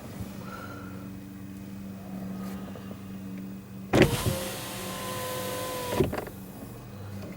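A car's electric window motor runs for about two seconds with a steady whine, starting and stopping with a clunk. Under it, the car's engine idles with a steady hum.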